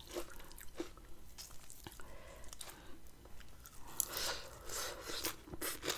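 Close-miked chewing and biting of a Thai rice noodle salad with mackerel and shrimp: wet mouth sounds with scattered small clicks.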